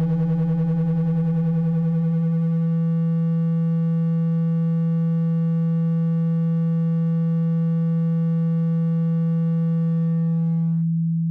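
A steady, low, buzzy electronic tone, played to make a phone speaker vibrate and shake out water. Near the end its buzzy upper overtones drop away, leaving a plain low hum.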